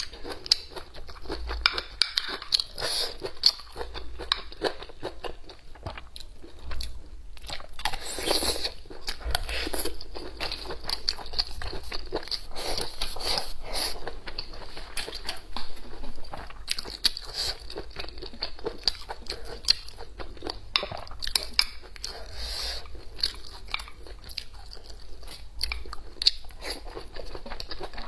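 A person chewing and biting food close to the microphone, with many short, irregular crunches and clicks throughout.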